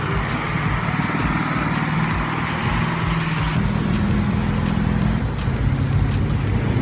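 Heavy vehicle engine running steadily under load, its note changing about three and a half seconds in.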